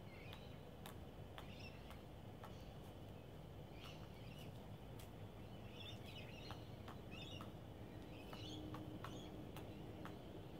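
Faint chirps of small birds, short calls coming every second or so and most often in the second half, over a steady low background hum with scattered light clicks.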